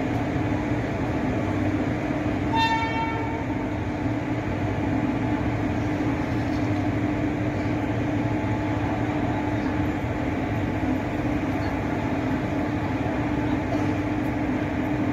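Indian Railways LHB passenger coaches rolling slowly past as the train departs: a steady rumble of wheels on rail with a constant low hum. About two and a half seconds in there is one brief high-pitched toot.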